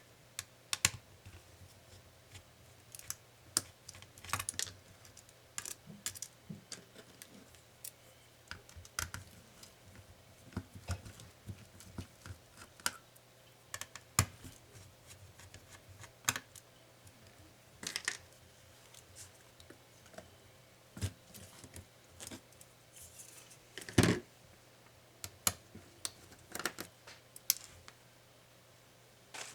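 Irregular small clicks, taps and light scrapes of laptop parts and hand tools being handled during disassembly, with one louder knock about 24 seconds in.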